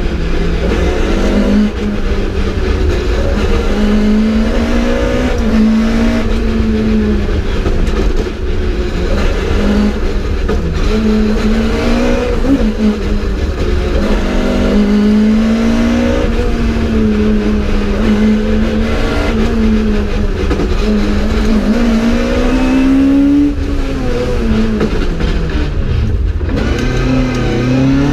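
Mk2 Ford Escort rally car's engine heard from inside the cabin at stage pace, repeatedly revving up and falling back through the gears. Near the end the pitch drops low before it climbs again.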